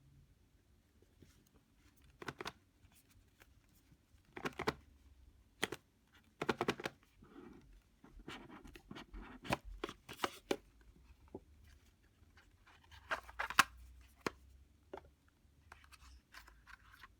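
Packaging of a boxed card deck being handled and opened: irregular crinkling, rustling and sharp taps of plastic wrap and cardboard, loudest around a third of the way in and again past the middle.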